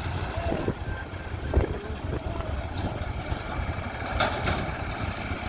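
Sonalika tractor's diesel engine running with a steady low rumble.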